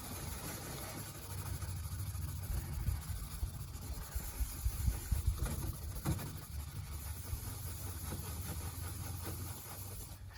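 Steel-wool soap pad scrubbing decal residue off a fiberglass snowmobile hood: an uneven, continuous rubbing with a low rumble that swells and eases as the pad is worked back and forth.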